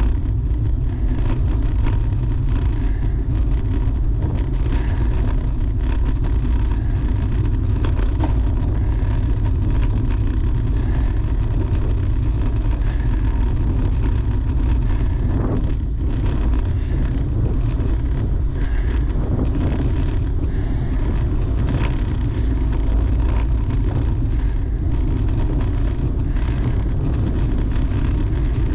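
Steady wind buffeting the microphone of a bicycle being ridden on the road, a constant low rumble.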